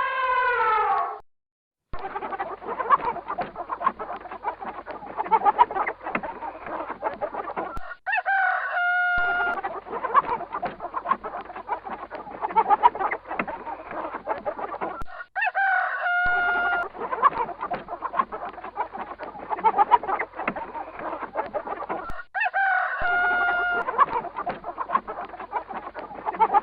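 Chickens clucking continuously, with a rooster crowing three times, about seven seconds apart. A short call falling in pitch ends about a second in, before the clucking starts.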